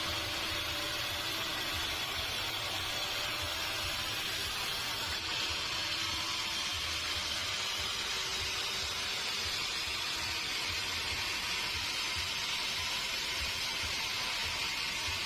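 Sawmill machinery running with a steady hiss-like noise; the highest part of the hiss drops away about five seconds in.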